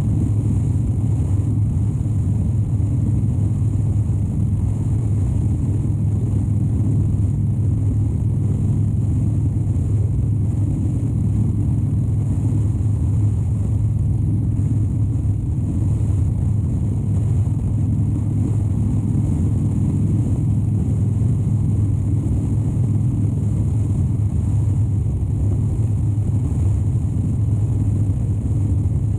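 2013 Harley-Davidson Dyna Wide Glide's 103 cubic inch V-twin running at a steady cruise, a constant low drone with no change in revs.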